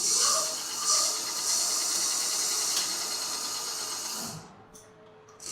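A steady, high hiss that swells about a second in and dies away near the end.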